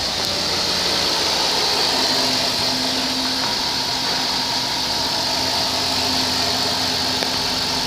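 2006 Dodge Grand Caravan engine idling steadily, a run test of a used engine.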